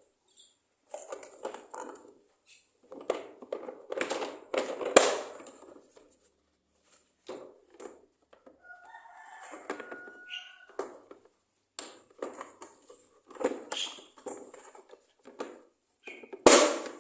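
Hard plastic parts of a toy dump truck clicking, rattling and knocking as the truck bed is pushed and fitted onto the chassis, with a sharp knock about five seconds in and another near the end. A short pitched cry sounds about nine seconds in.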